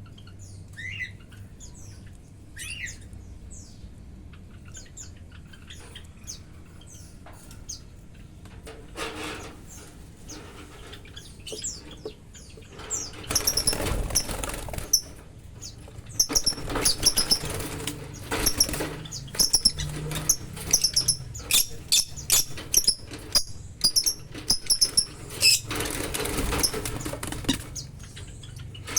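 Lovebirds chirping in quick, shrill, high notes, sparse at first and then crowding together through the second half. Several bursts of rustling or wing-flapping come among them.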